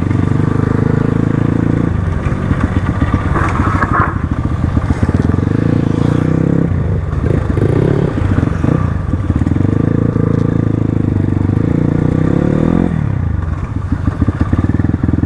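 Crossfire RM250 dirt bike engine running under way, holding a steady speed for a few seconds at a time with easing-off spells in between, around two, seven and thirteen seconds in.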